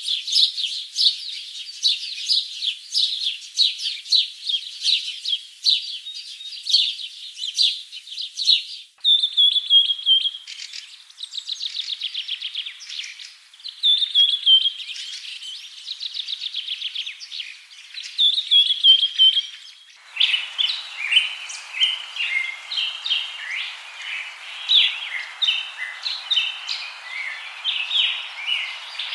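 Small songbirds chirping and singing in high, quick calls. The sound changes abruptly twice: rapid trilled phrases fill the middle stretch, and in the last third the chirps sit over a steady hiss.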